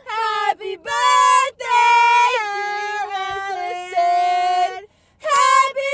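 A young woman singing high, held notes that glide from pitch to pitch, with short breaks between phrases and no instruments heard.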